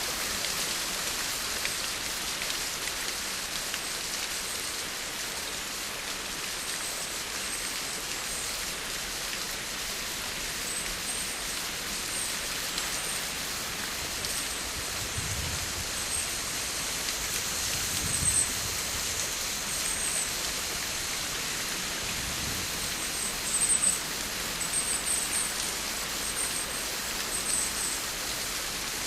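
Steady rain falling: an even hiss that swells briefly a couple of times, about two-thirds and four-fifths of the way in.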